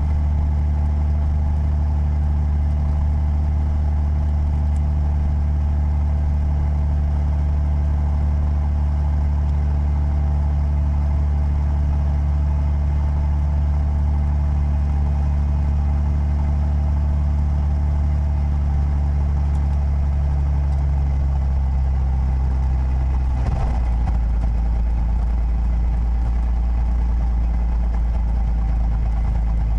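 Piper PA-32's six-cylinder Lycoming piston engine and propeller running steadily at low power, a steady low drone. The engine note changes about 23 seconds in.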